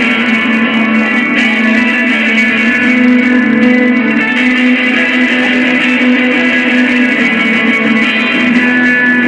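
Electric guitar jamming without pause, notes ringing over a steady held low drone.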